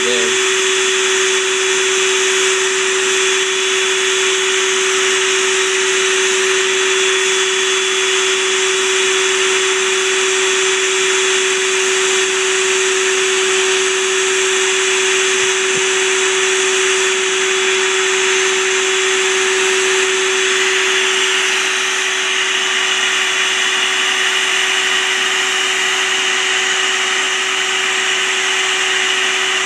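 Vacuum motor running steadily, with a constant whine over a loud hiss; its tone shifts slightly about twenty seconds in. In a bee removal this is typically a bee vacuum drawing the swarm into a box.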